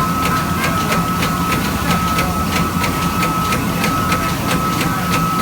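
Giga8888 eight-spindle CNC machine running: a steady high whine over a low hum, with regular ticking about three to four times a second.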